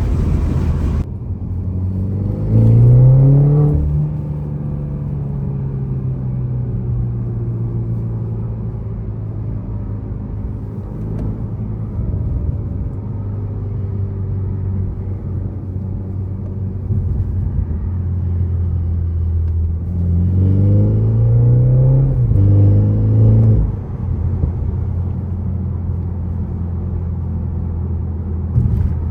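BMW 330i's turbocharged 2.0-litre four-cylinder idling through a valved axle-back sport exhaust. It is revved once about three seconds in, then twice in quick succession about two-thirds of the way through. Each rev rises and falls straight back to a steady idle.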